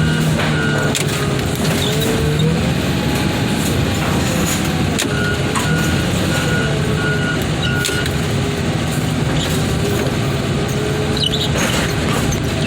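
Heavy equipment's diesel engine running steadily under load, its note rising and falling as the machine works. A reversing alarm beeps in two short runs, near the start and about halfway through, and there are a few sharp knocks.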